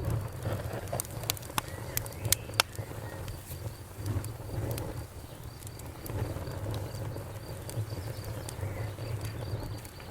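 Wood fire crackling, with sharp pops that come thickest in the first three seconds, over a low steady rumble of the flames. A faint high chirp repeats evenly throughout.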